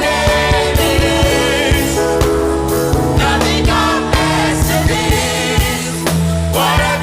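Worship song with a singer over a band, with held notes, bass and drums keeping a steady beat.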